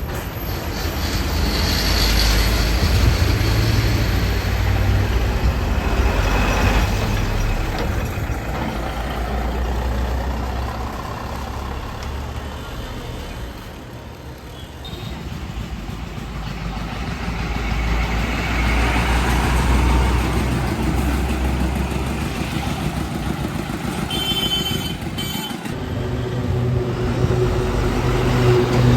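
Road traffic with heavy trucks passing: low engine rumble and tyre noise that swell and fade twice, with a brief high pitched sound in the second half and a low pitched drone coming in near the end.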